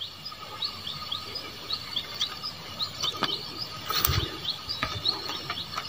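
Birds chirping outdoors: many short, high, downward-sliding chirps repeated several times a second, over a faint steady insect-like drone. A brief knock about four seconds in.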